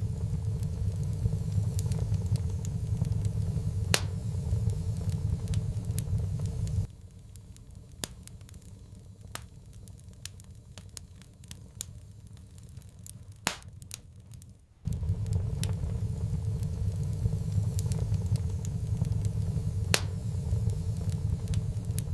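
Fireplace fire crackling, with scattered sharp pops. A steady low rumble under it cuts out about seven seconds in, leaving only the crackling, and comes back near fifteen seconds.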